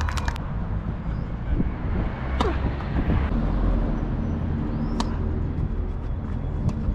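Steady low outdoor rumble with two sharp knocks about two and a half seconds apart.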